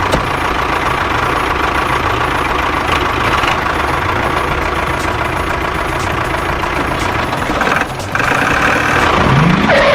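Truck engine running steadily, with a short rising rev near the end.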